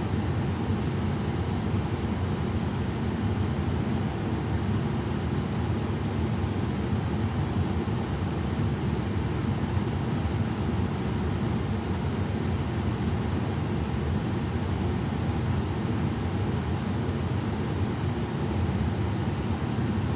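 Machine air vent blowing a steady, low rumbling rush of air, unchanging throughout.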